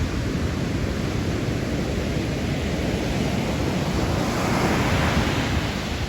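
Sea waves washing onto the shore, with a wave surging louder about four seconds in. Wind buffets the microphone with a low rumble throughout.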